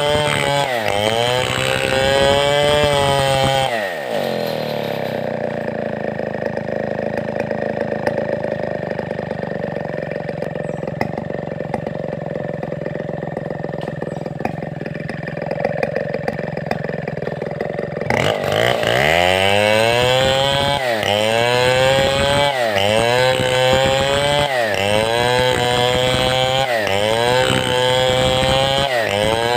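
Large Stihl 070-type two-stroke chainsaw (a New West 707) sawing timber. Its engine note sags and recovers about every two seconds, settles into a steadier, quieter run from about four seconds in, then returns to the repeated sags at about eighteen seconds.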